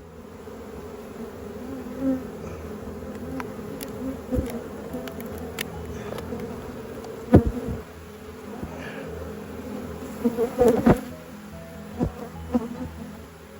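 Honeybees buzzing in a steady, even hum, with several sharp knocks and clatters on top, the loudest about halfway through and a quick cluster a few seconds later.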